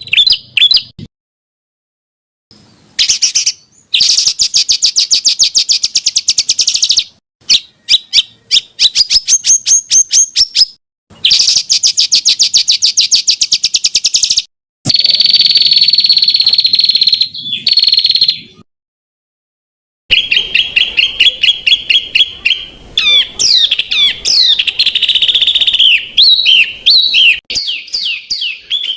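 Spliced recordings of songbird song: loud, fast trills and rapid strings of repeated high notes, with warbling phrases near the end. The song is broken off abruptly several times by short silent gaps. It is a masteran song track, made for cage songbirds to copy.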